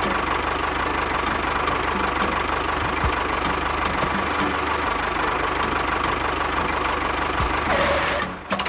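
A miniature tractor's motor running steadily, sounding like a small engine idling, with faint regular ticks about two to three a second. It dips briefly near the end, then carries on.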